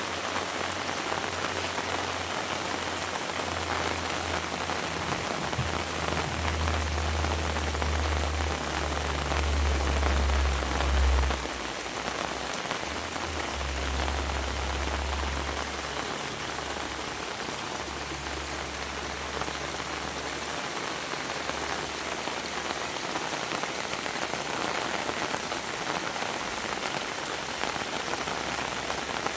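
Heavy rain falling steadily, with a low rumble that builds a few seconds in, is loudest about ten seconds in, and fades away before the second half.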